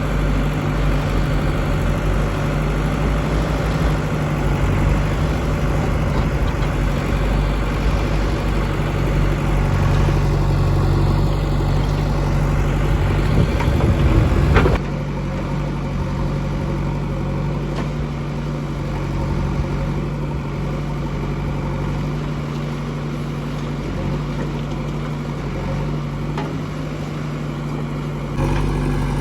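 Heavy diesel engine of a backhoe loader running steadily at working speed while loading mud, with a brief loud rattle about halfway through. The sound shifts abruptly twice, about halfway and near the end.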